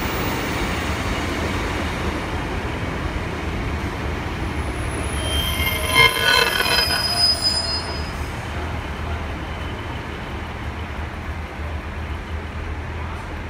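Diesel multiple-unit trains running with a steady low rumble. From about five to seven and a half seconds in comes a high, ringing wheel squeal in several tones as the Class 143 Pacer comes into the platform.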